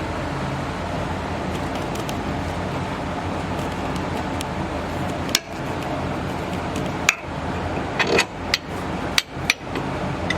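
Hammer blows on the steering knuckle, knocking the outer tie rod end's tapered stud loose: about eight sharp metallic strikes at irregular spacing in the second half, over a steady background hum.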